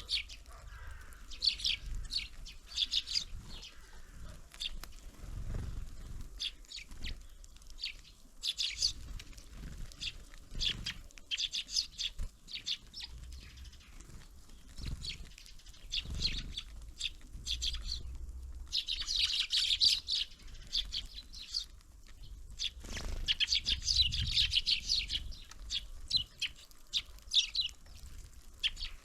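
Small songbirds at a winter feeder chirping and calling: many short high chirps in quick clusters, busiest a little past the middle and again near the end, with a few dull low thuds among them.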